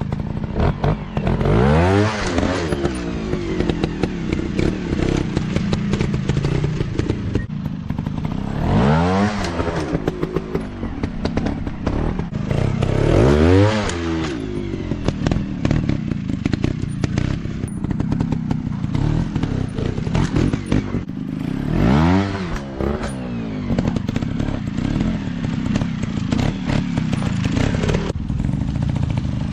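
Off-road dirt bike engines running, revving up and easing back off about four times, with clattering and scraping over rough ground between the revs.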